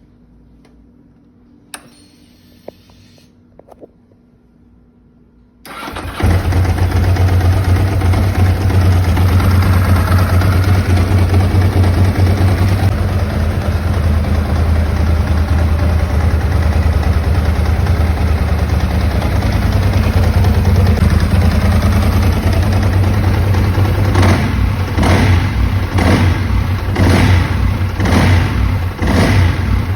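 Ducati 748's V-twin engine: after a few clicks and a brief faint whir, it starts a little under six seconds in and settles into a steady idle. Over the last several seconds the throttle is blipped repeatedly in quick short revs.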